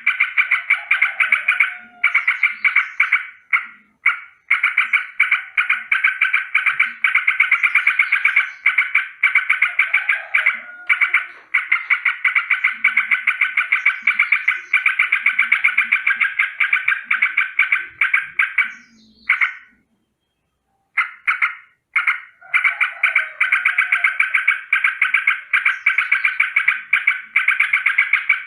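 Yellow-vented bulbul giving a long rolling alarm call: a fast, continuous rattle of repeated notes, broken by a few short pauses, the longest about two-thirds of the way through.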